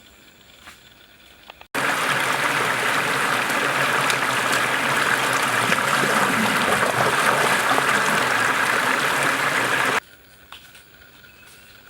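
Running water, a steady rushing flow that cuts in suddenly just under two seconds in and stops abruptly about two seconds before the end, with quiet ambience on either side.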